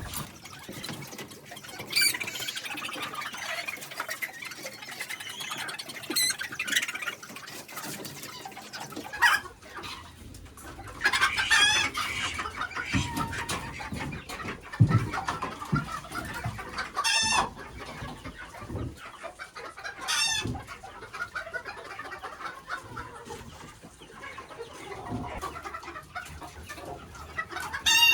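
Old English Game bantam chickens clucking and calling in their pens, with several short loud calls spaced through, some of them rooster crows.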